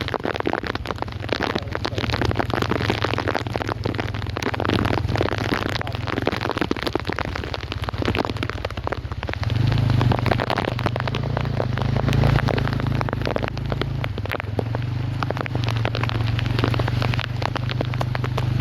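Rain pattering and crackling close to the microphone, over a steady low rumble that grows louder about nine and a half seconds in.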